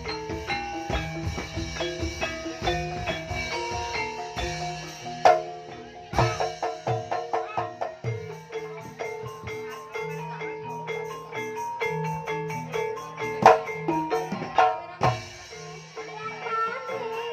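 Javanese Banyumas-style music ensemble of tuned struck keys playing quick running note patterns over a steady low note, with drum strokes accenting the beat and a few loud strikes about five seconds in and twice more about two-thirds through.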